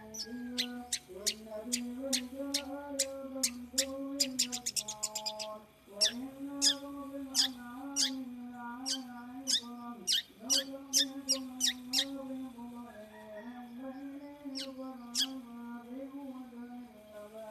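Caged long-tailed shrike (pentet, 'bagong' type) giving its 'ngriwik' call: short, sharp, high chirps in uneven bursts. A fast rattling run comes about four seconds in, the calls thin out after about twelve seconds, and two more come near the end. A chanted voice carries on underneath.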